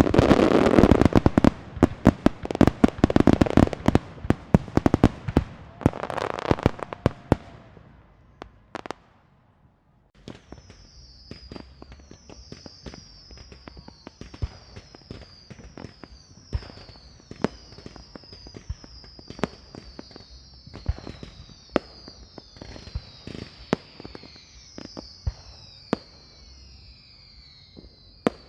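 Fireworks and firecrackers: a dense run of loud sharp bangs and crackles for about the first eight seconds. After a short lull come quieter scattered pops and crackles, with a string of high, quickly falling whistles repeating over them.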